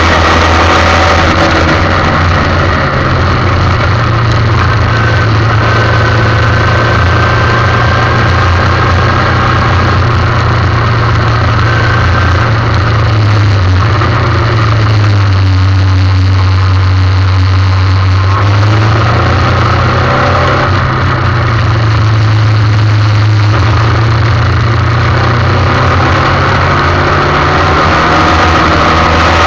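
Formula 1600 racing car's engine running hard at speed. Its note drops for a few seconds around the middle as the car slows, then climbs again as it accelerates.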